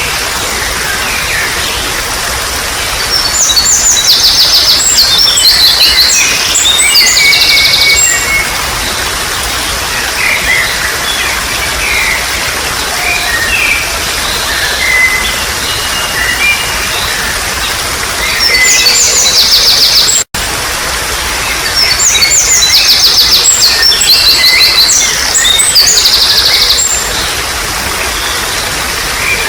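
Water trickling and babbling steadily, with songbirds singing over it: two loud, similar bursts of rapid, pulsing high notes and scattered chirps between. The sound cuts out for an instant about two-thirds of the way through.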